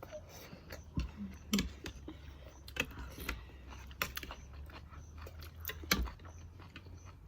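Irregular light clicks and taps of eating utensils against dishes during a meal, over a low steady hum.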